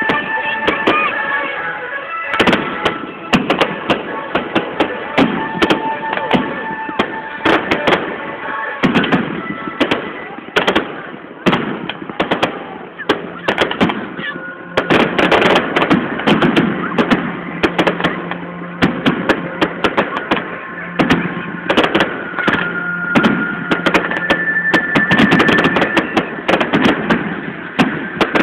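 Fireworks going off in a dense barrage of bangs and crackles, many a second, over music playing throughout.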